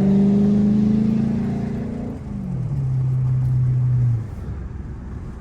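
Car engine accelerating hard, its note climbing steadily. About two seconds in the pitch drops sharply, as at an upshift, and the engine holds a lower steady note before easing off about four seconds in.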